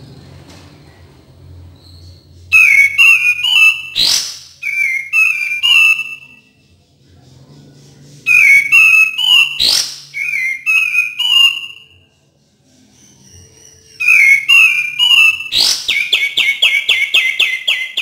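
Sooty-headed bulbul song: three bouts of short, gliding whistled phrases with brief pauses between. The last bout ends in a fast run of repeated notes, several a second.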